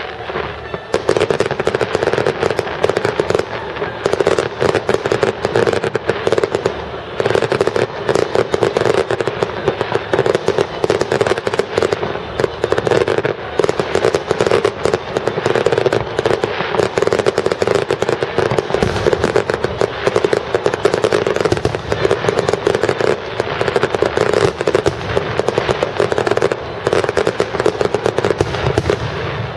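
Fireworks display: a dense, continuous crackle and rapid popping of aerial shells.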